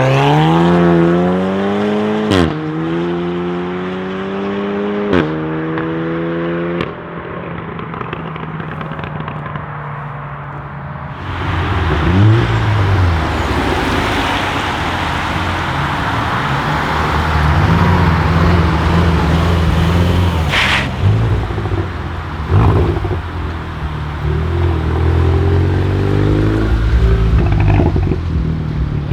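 Tuned Volkswagen Golf 7 R's turbocharged four-cylinder accelerating hard. Its pitch climbs through the gears, with a sharp crack and a drop in pitch at each of two upshifts, then fades away after about seven seconds. After a lull, a louder rushing stretch of engine noise follows, with a couple of sharp cracks from the exhaust.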